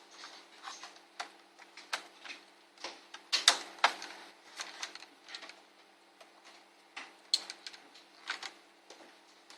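Irregular small clicks and taps from handling the parts of an ASUS N53 laptop being disassembled, with a louder cluster of knocks about three and a half seconds in.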